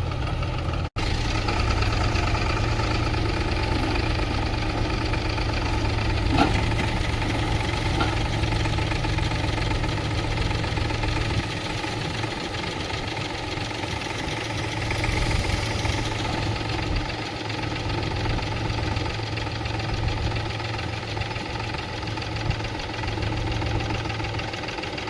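Heavy diesel machinery engine running steadily with a low hum, with a brief cut in the sound about a second in and a single short knock around six seconds in.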